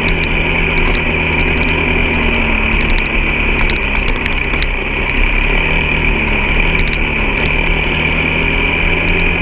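Vehicle engine running steadily at low revs, easing off briefly and picking up again midway, under a steady high whine. Scattered clicks and rattles sound throughout.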